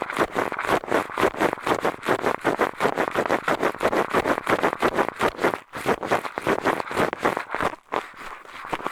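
Eyeglasses rubbed and scraped inside a binaural microphone's ear canal as ASMR ear cleaning: close, rapid scratchy strokes, several a second, with a brief break about halfway through.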